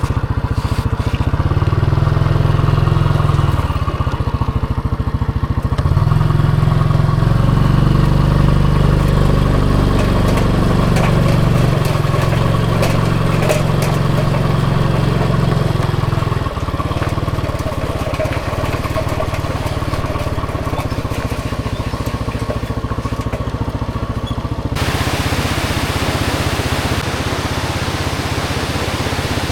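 Motorcycle engine running on the move, its pitch stepping up and down with throttle and gear changes. Near the end a steady rush of wind on the microphone sets in over the engine.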